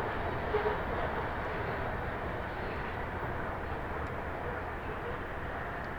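A train going by with a steady rumble.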